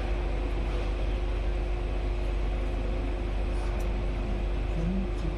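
Steady low rumble and even noise of a passenger train, with a constant hum running through it.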